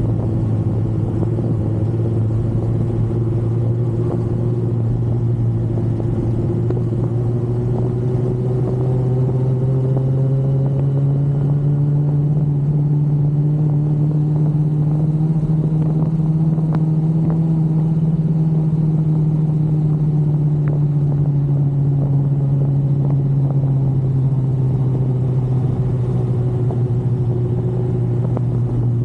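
Yamaha R1 sport bike's inline-four engine pulling steadily while riding, at moderate revs rather than idle. Its pitch climbs gently through the middle and eases back down near the end.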